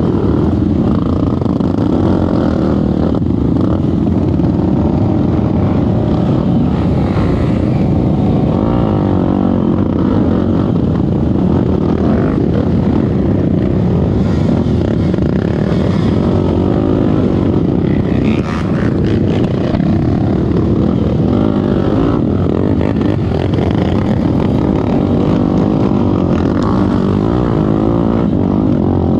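Off-road trail motorcycle engine running hard and continuously, its revs rising and falling as it is ridden.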